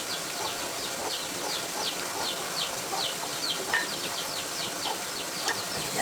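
A bird calling a quick, even series of short, high chirps, each falling in pitch, about three a second, over steady outdoor background noise.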